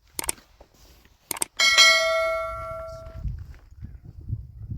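Two short clicks, then one struck metallic ring like a small bell, fading away over about a second and a half.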